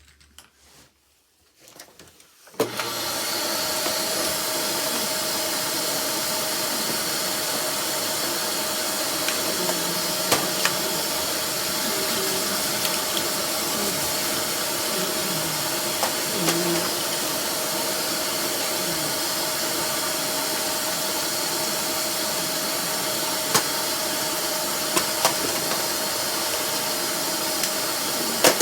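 Miele Classic C1 bagged canister vacuum cleaner switched on about two and a half seconds in, then running steadily: a loud rush of air with a steady hum, with a few light clicks now and then.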